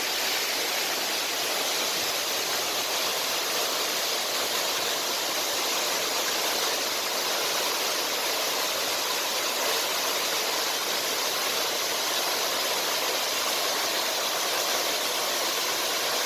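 Waterfall running: a steady, even rush of falling water, mostly hiss with little low rumble.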